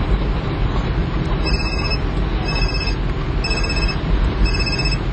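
Steady low vehicle rumble with a high electronic beep repeating about once a second, each beep short.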